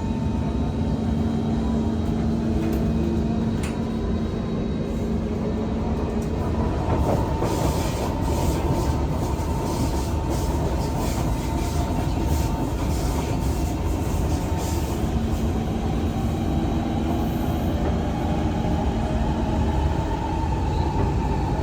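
SMRT Kawasaki–Kinki Sharyo C151 metro train running between stations, heard from inside the car: a steady rumble of wheels on the track with humming tones from the traction motors that fade and come back. Short crackles come through in the middle.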